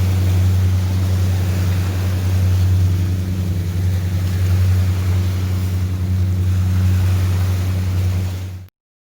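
Steady low engine drone over a wash of wind and surf, cutting off suddenly near the end.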